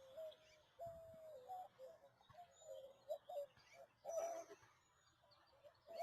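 Faint cooing bird calls, soft held notes that dip in pitch, with a few brief high chirps from a small bird.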